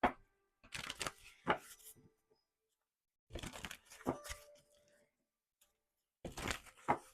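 Tarot cards being shuffled and drawn: three short bursts of papery rustling with sharp snaps, separated by pauses.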